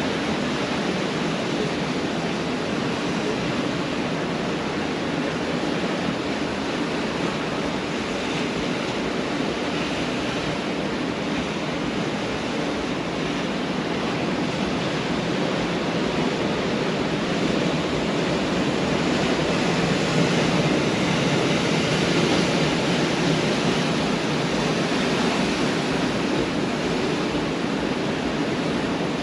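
Pacific Ocean surf: a continuous rush of breaking waves, swelling a little louder about two-thirds of the way through.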